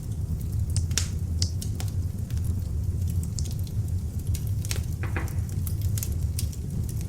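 Beech log fire burning in an open fireplace: irregular sharp crackles and pops from the wood over a steady low rumble, with a few louder pops about a second in and around five seconds in.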